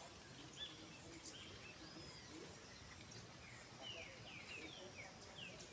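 Birds chirping in quick short falling notes, most of them in the second half, over a steady high-pitched whine.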